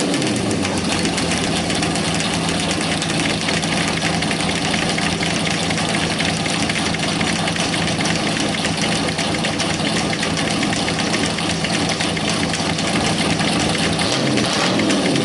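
Cammed 350 small-block Chevy V8 running at idle through short open boom-tube exhaust pipes, with the engine speed shifting briefly near the end.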